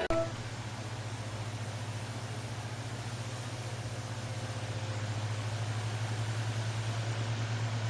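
A motor running steadily with a low hum and a faint hiss, growing slightly louder about halfway through.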